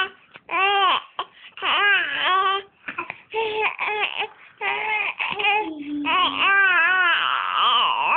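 A baby sing-song vocalising: a string of high-pitched, short syllables, each rising and falling in pitch, with brief breaks between them.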